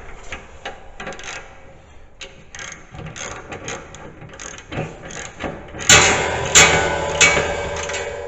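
Metal mechanism ratcheting and clicking, with scattered clicks at first, then louder and busier from about six seconds in, with sharp clicks roughly every half second.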